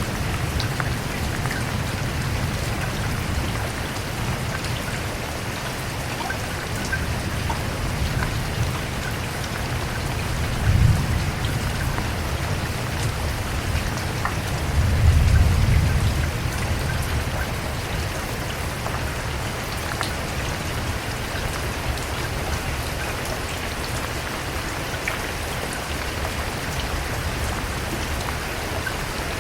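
Steady heavy rain falling, a dense even hiss with scattered drop ticks. Two brief low rumbles rise out of it, one about a third of the way in and a longer one about halfway through.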